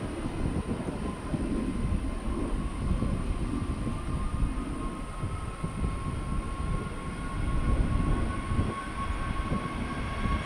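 Jet airliner engines rumbling, with a thin whine that rises slightly in pitch and grows stronger in the second half.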